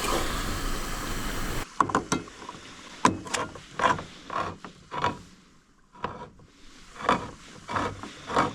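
Food sizzling in the pot for a moment, cut off suddenly. Then a series of irregular clicks and creaks, about two or three a second with a short pause in the middle: a hand-crank can opener working its way round a can of diced tomatoes.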